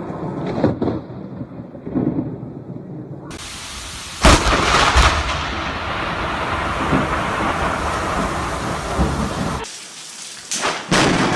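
Thunderstorm with heavy rain. About four seconds in, a sudden, very loud thunderclap from a close lightning strike, followed by several seconds of rumbling under the downpour. A few more sharp cracks come near the end.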